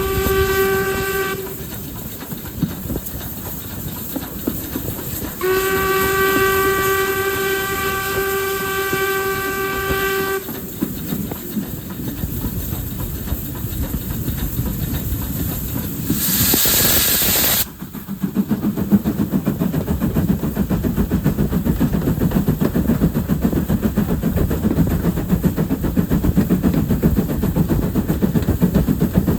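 Steam locomotive whistle sounding twice, a short blast and then a steady one of about five seconds. A loud hiss of steam follows for a second or two. Then comes a steady rhythmic beat as the train works along.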